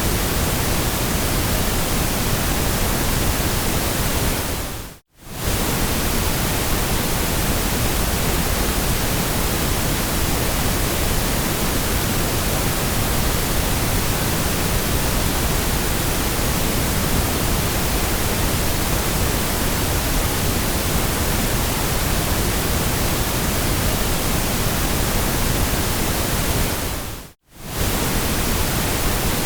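Steady hiss of generated white noise, even across low and high pitches. It briefly dips to near silence and comes back twice, about five seconds in and again near the end.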